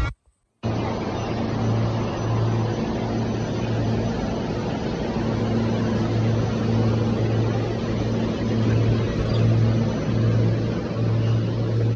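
SEPTA Regional Rail electric train running, heard from inside the passenger car: a steady rumble with a low hum that swells and fades in an even rhythm.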